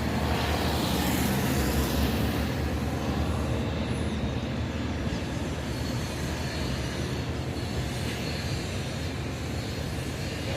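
Cessna 152's four-cylinder piston engine and propeller at takeoff power, a steady drone that is loudest about two seconds in and then slowly fades as the plane climbs away.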